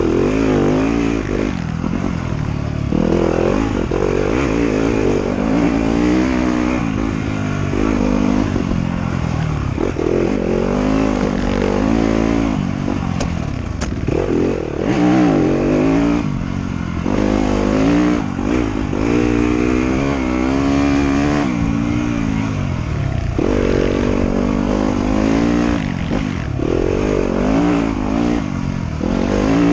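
Motorcycle engine revving up and falling back over and over as it is ridden, its pitch climbing and dropping every second or two.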